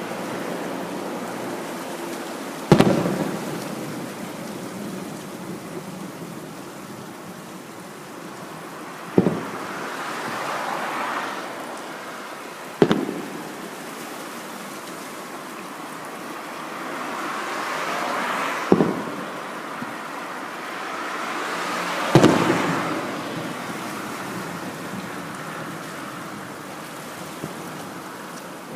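Fireworks display: aerial shells bursting with sharp booms, five in all, a few seconds apart, each trailing off. Between the booms, a hissing crackle of burning stars swells and fades.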